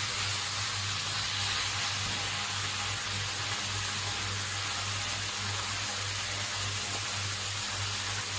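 Chicken and rice frying in a stainless steel wok, a steady sizzling hiss, with a steady low hum underneath.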